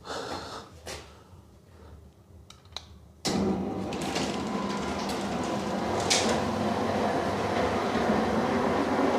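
Electric roller garage door starting up about three seconds in and running steadily, the motor and rolling door making a continuous rumble.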